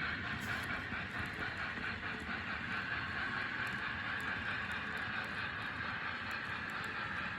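N scale model freight train running along the track: a steady whir of the small locomotive motor and the rolling of the wheels.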